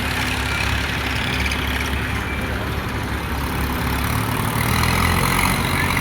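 Tractor diesel engine running steadily at low revs, its note rising slightly about four and a half seconds in.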